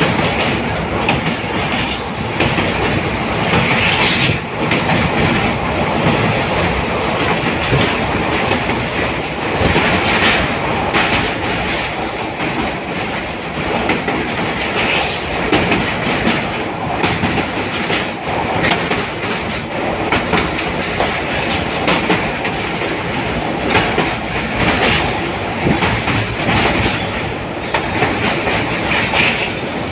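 Passenger train running at speed, heard from a carriage window: a continuous rush of wheel and rail noise with wheels clattering over the track, swelling now and then.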